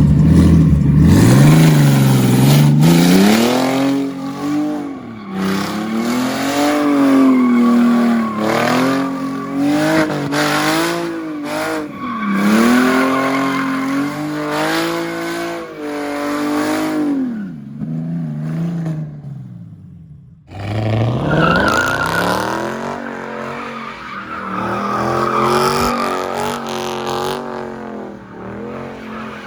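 A car engine being revved hard over and over, its pitch climbing and falling with each burst, while the tyres squeal as the car drifts or does donuts. The sound dies away two-thirds of the way through, cuts off, then picks up again with more revving.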